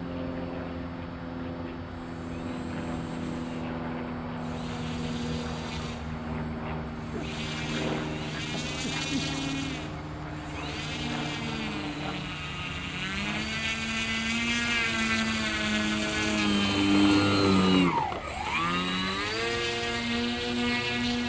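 The two electric motors and propellers of a radio-controlled DH-84 Dragon twin-engine biplane model in flight, a whine of several tones that shifts in pitch. About three seconds before the end the pitch drops sharply and climbs straight back.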